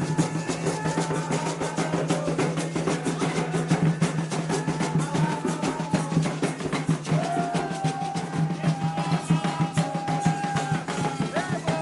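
Candomblé ritual music: fast, dense hand drumming on atabaques, with voices holding long sung notes over the drums in the second half.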